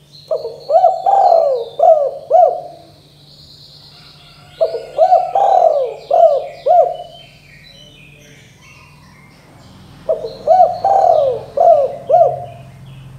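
Spotted dove (tekukur) cooing in three phrases a few seconds apart, each of about five short rising-and-falling coos. Small birds chirp faintly in the background.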